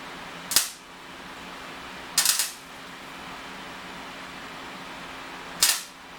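Three sharp metallic clacks of small metal parts and hand tools being handled, the second a quick rattle of several knocks, over a steady low hum.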